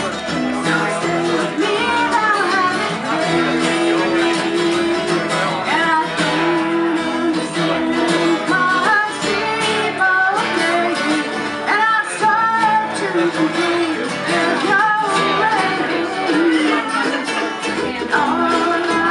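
Live band music: guitar playing with singing.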